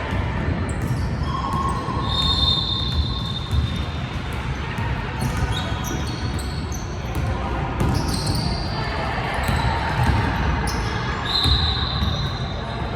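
Basketball bouncing on a gym floor during play, with repeated thumps over steady crowd and hall noise. A few short high squeaks come through, the loudest around two seconds in and again near the end.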